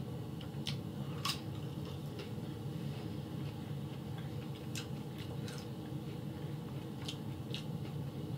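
Close-miked chewing with the mouth closed: a scattering of short, wet mouth clicks at irregular spacing, the loudest about a second in, over a steady low hum.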